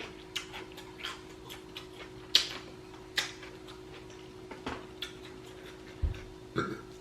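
Close-up eating sounds: wet mouth smacking and chewing clicks from eating sauce-covered seafood, a string of short irregular smacks, with a dull knock about six seconds in.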